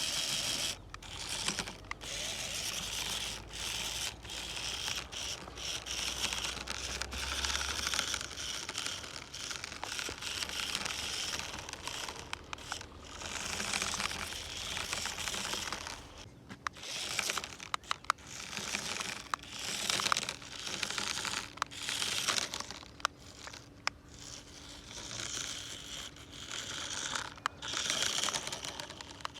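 Crinkling, rustling and tearing of material being handled by hand, in repeated bursts of a second or two with scattered sharp clicks.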